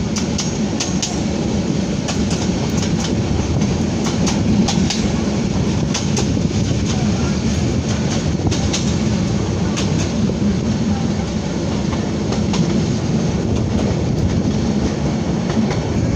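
Passenger train running along the track: a steady rolling rumble with irregular sharp clicks and clacks from the wheels and carriage.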